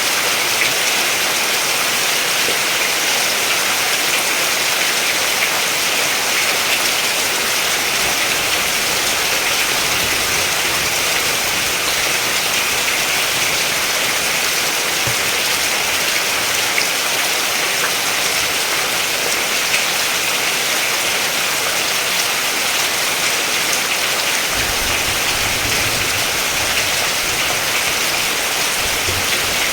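Steady rain falling, an even hiss with individual drops ticking through it. A faint low rumble comes in briefly near the end.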